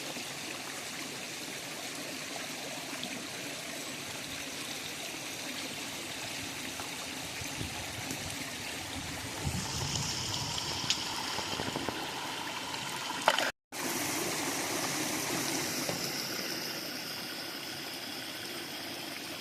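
River water flowing steadily. Partway through the water gets louder and busier for a few seconds, then the sound cuts out abruptly for a split second and the flow resumes.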